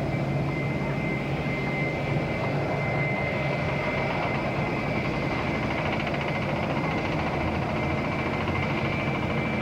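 Airbus A320 jet engines running steadily: an even rush of noise with a steady high whine over it.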